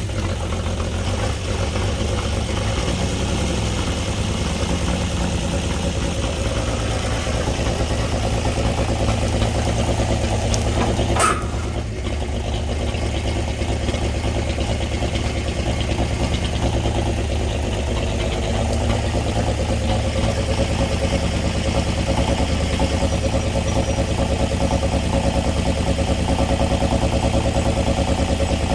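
Winch truck's engine idling steadily, with one sharp clank about eleven seconds in.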